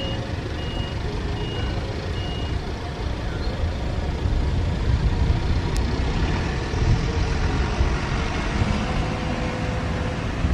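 Steady low rumble with wind noise on the microphone, growing louder about halfway through. Over it, a high electronic beep repeats evenly, about once every two-thirds of a second, and stops about two and a half seconds in.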